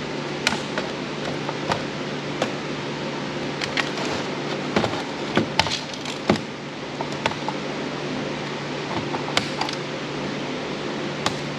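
Steady fan-like hum and hiss, with scattered light clicks and taps at irregular moments from small parts being handled while a robot vacuum is taken apart.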